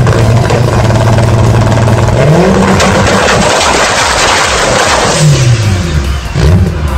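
Modified Volkswagen Gol engine revved in place. It is held at a steady speed, rises about two seconds in, and then a loud harsh crackling blast of exhaust runs for a couple of seconds while flames shoot out at the front of the car. The revs drop about five seconds in, with one more short blip near the end.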